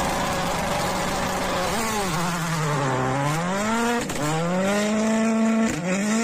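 Ford rally car's engine accelerating hard away on a snowy road. The revs dip about two seconds in, then climb, with two quick breaks at the upshifts.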